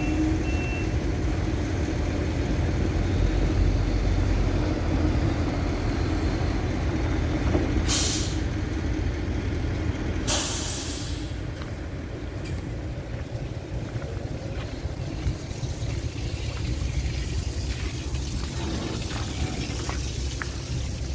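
Concrete mixer truck's diesel engine running steadily, with two hisses of air-brake release: a short one about eight seconds in and a longer one about two seconds later. Reversing beeps stop about a second in.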